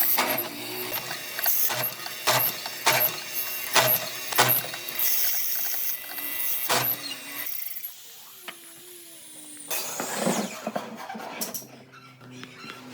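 A mechanism clicking and knocking in sharp strokes, about one to two a second, for roughly seven seconds. After that it goes quieter, with a brief noisy swell near the ten-second mark.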